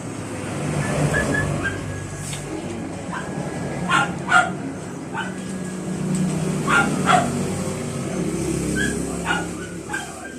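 A dog yipping in short, sharp calls that come in quick pairs, twice and then again near the end, over a steady low hum.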